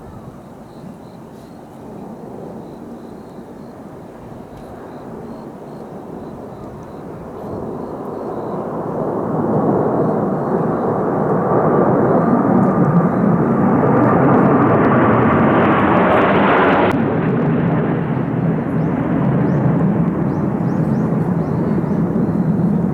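Kawasaki T-4 jet trainers flying past: the jet noise builds over several seconds to a loud rush with a rising whine. The whine cuts off abruptly as the aircraft pass overhead, and a deep roar carries on as they fly away.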